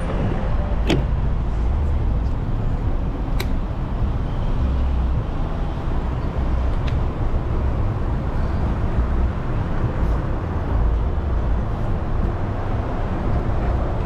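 Steady city road traffic noise with a low rumble, heard from a moving bicycle, with a few sharp clicks.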